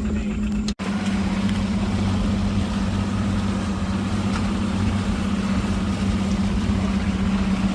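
Boat motor running steadily with an even hum. The sound cuts out for an instant just under a second in, then carries on.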